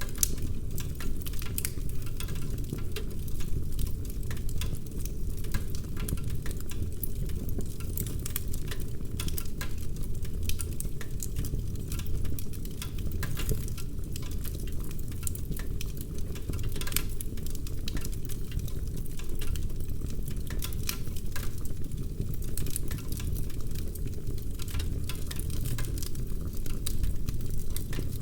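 Wood fire in a fireplace crackling, with frequent sharp pops and snaps over a steady low rumble of flame.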